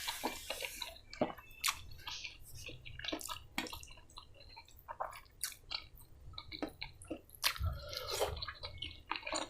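Close-miked chewing of a mouthful of food, wet smacking and short irregular clicks of the mouth.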